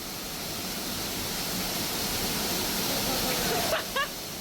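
Waterfall rushing steadily, growing louder over the first three seconds, with a person's voice briefly heard near the end.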